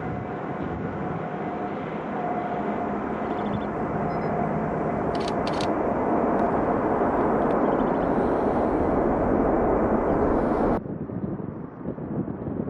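Jet airliner engine roar growing steadily louder, then cutting off abruptly about eleven seconds in, leaving wind noise on the microphone. Two sharp clicks about five seconds in.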